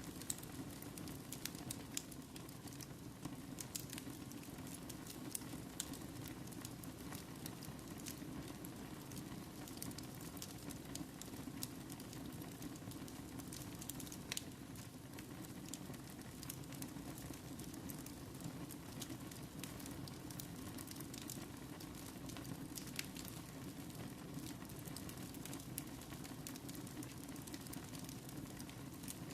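Wood fire burning in a fireplace, crackling with many scattered sharp pops over a steady low rush.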